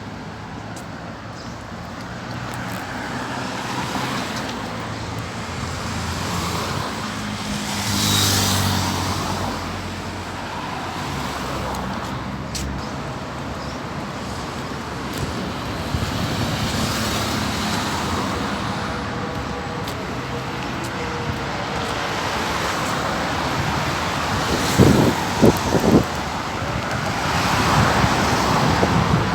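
Road traffic noise: cars and other vehicles running past in a steady stream. A louder pass comes about eight seconds in. Three short, sharp tones sound around twenty-five seconds in, and the traffic grows louder near the end.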